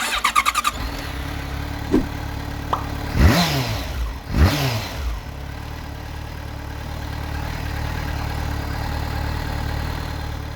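Yamaha FZ6N motorcycle's inline-four engine idling, blipped twice on the throttle about three and four and a half seconds in, each rev rising sharply and falling back to idle. A short rapid stutter of pulses in the first second.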